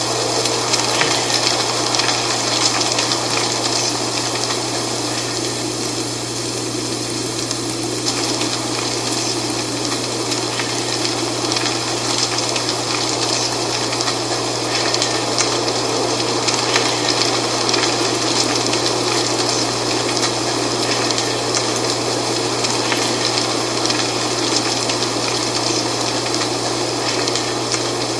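Dry fall leaves rustling in the wind: a steady rushing hiss full of small crackles, with a constant low hum underneath.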